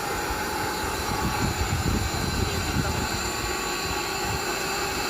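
Steady machine drone with a fixed hum, and an uneven low rumble that swells in the middle.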